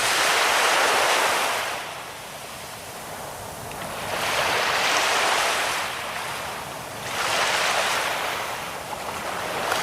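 Sea waves breaking and washing in, the hiss of surf swelling and fading three times, a few seconds apart.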